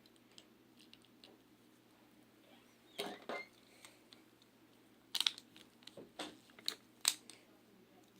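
Plastic Beyblade parts and packaging being handled: faint clicks with a few short rustling scrapes. The loudest come about three seconds in and again between five and seven seconds in.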